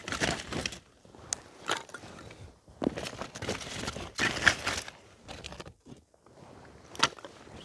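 Irregular rustling, crinkling and knocking of fire-starting materials, paper and pieces of wood, being handled close by. The loudest rustle comes about four and a half seconds in, and there is a sharp click near the end.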